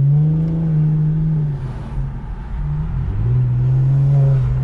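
Infiniti Q50's twin-turbo 3.0 V6 with a muffler delete and aftermarket intakes accelerating, heard from the cabin with the windows down. The engine note rises, levels off and drops back, then rises and holds again.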